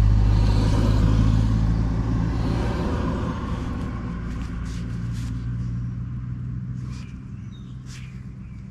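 A motor vehicle's low engine rumble, loud at first and fading steadily away, with a few faint clicks near the end.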